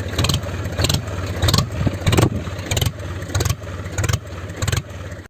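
Small motor of a homemade mini tractor flour mill running steadily, with a regular rasping pulse about one and a half times a second.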